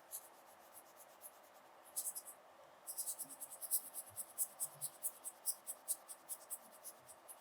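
Quick, light scratching and tapping strokes of a makeup tool on a watermelon's rind. A brief cluster comes about two seconds in, then a dense run of rapid strokes that thins out near the end.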